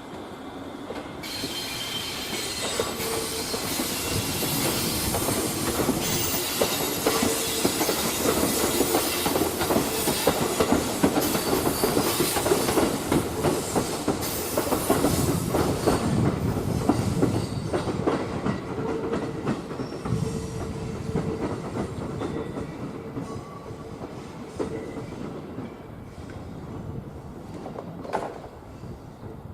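A train passing on the tracks with wheel clatter. It grows louder, runs loudest through the middle with a steady whine, then fades away.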